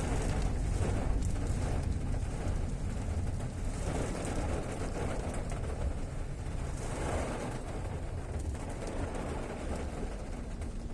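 Fairly heavy rain falling: a steady hiss with a low rumble underneath, swelling briefly about four and seven seconds in.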